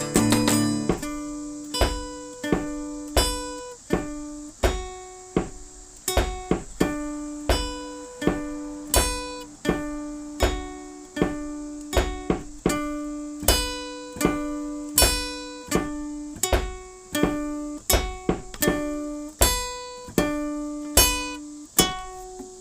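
Acoustic guitar picking single notes in a repeating pattern, each note ringing and decaying, about one and a half a second, with no singing; the last note dies away near the end.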